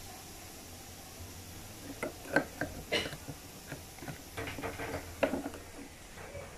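A scatter of light knocks and clicks, starting about two seconds in and dying away after about three and a half seconds, over quiet room noise.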